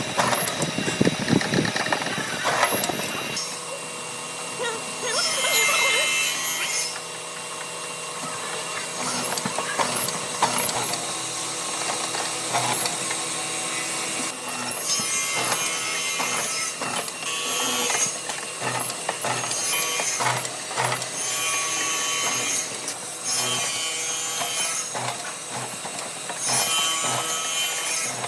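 Hand tool working wood in repeated strokes, each about a second long, rasping across the surface, coming more often in the second half.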